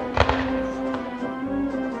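One firework bang just after the start, ringing out briefly, over background music with held notes.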